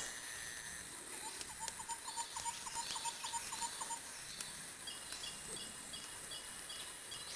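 Wood fire crackling, with scattered sharp pops and snaps over a steady hiss. For a few seconds early on, a fast run of short high chirps, about five a second, joins it.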